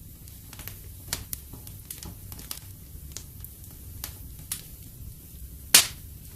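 Wood fire crackling in a fireplace: scattered sharp pops over a low steady rumble, with one loud pop near the end.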